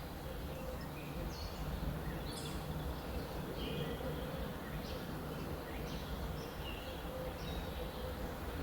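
Small birds chirping in short repeated calls about once a second, over a steady low rumble of background noise.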